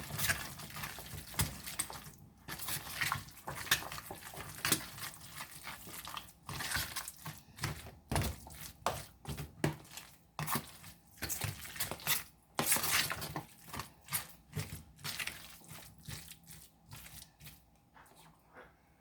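A spoon stirring chicken salad in a bowl: irregular scraping and clinking of utensil against bowl, with soft wet mixing sounds.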